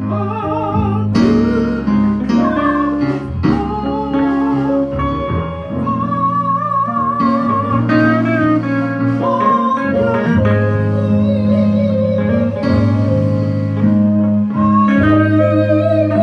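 Electric guitar playing a slow lead melody with wavering held notes over steady bass and keyboard chords.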